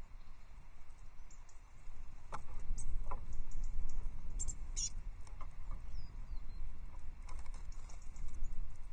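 Small songbirds giving brief thin high calls and chirps, with a few sharp taps and scratches as they move about on the nest. Under them is a low outdoor rumble that swells about two seconds in.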